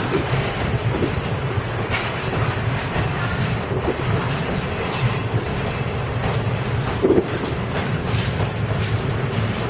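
Freight train of loaded hopper wagons rolling slowly, with a steady rumble of wheels and irregular clacks over the rail joints. A short, louder knock comes about seven seconds in.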